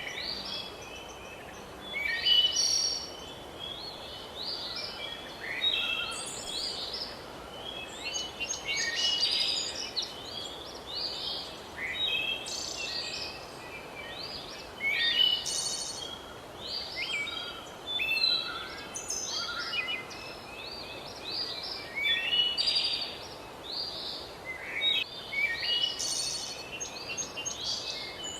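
A dense chorus of many birds singing and calling together, overlapping chirps and short whistled phrases, over a steady faint background hiss.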